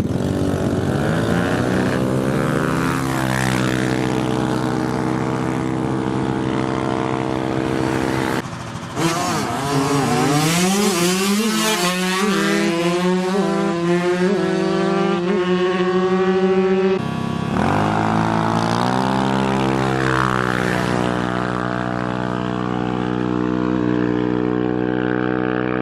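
Small motorcycle engines running hard and revving, with the pitch climbing as they accelerate. The sound breaks off abruptly and changes twice, about a third and about two-thirds of the way through.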